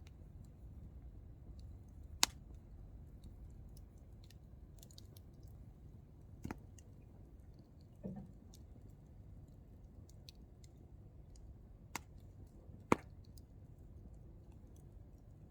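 Hardwood campfire burning with a low steady rush and faint crackling, broken by about five sharp pops of firewood bursting, the loudest about two seconds in and about thirteen seconds in.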